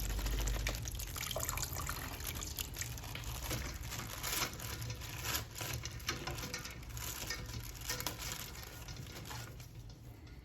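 Water running and splashing from a tap, with small scattered clicks; it thins out near the end.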